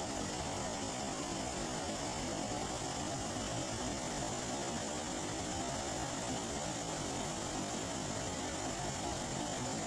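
Rain falling on a flooded lake, a steady, even hiss that does not change.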